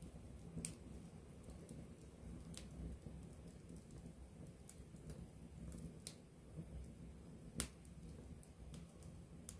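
Wood campfire crackling up close: a few sparse, sharp pops and snaps, the loudest about seven and a half seconds in, over a soft low rumble of the burning fire.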